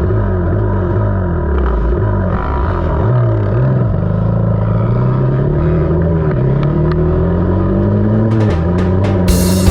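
KTM 300 two-stroke dirt bike engine running under load on a trail, its pitch dipping and then climbing gradually as the throttle is worked. A quick series of knocks and clicks comes near the end.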